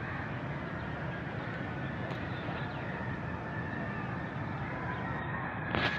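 Steady outdoor background noise like the hum of distant traffic, with faint thin high calls over it and a few light clicks near the end.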